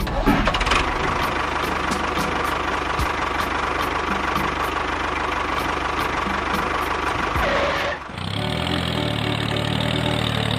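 An engine running steadily with a rapid, even knocking rhythm, which cuts off suddenly about eight seconds in. Music with sustained notes follows.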